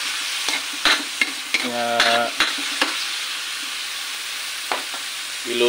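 Chicken pieces sizzling in hot oil in a metal wok, with a steady hiss, while a spatula stirs them, clicking and scraping against the pan now and then.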